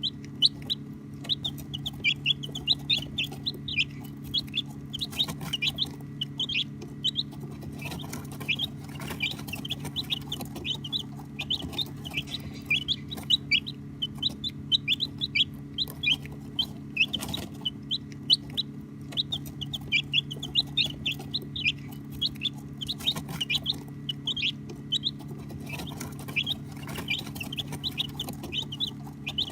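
A brood of baby chicks chirping continuously: many short, high peeps overlapping several times a second. A steady low hum runs underneath.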